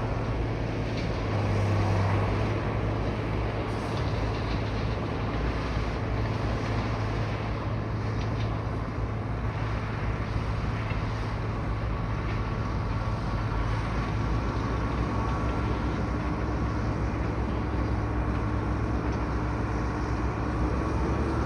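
A heavy bulldozer's diesel engine running steadily: a continuous low drone with a faint whine above it.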